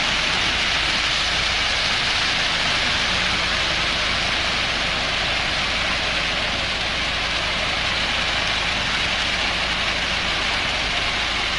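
Concrete mixer truck's engine running steadily under a constant high hiss.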